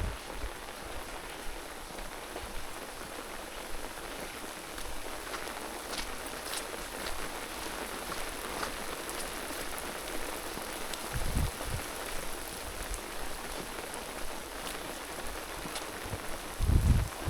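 Steady rain falling, an even hiss with scattered drop ticks. A low thump comes about eleven seconds in, and louder low bumps come near the end.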